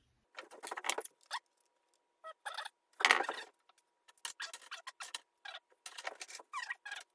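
Irregular rattling and clinking of small hard objects being handled and rummaged through, in short bursts of about a dozen knocks and scrapes with brief gaps between.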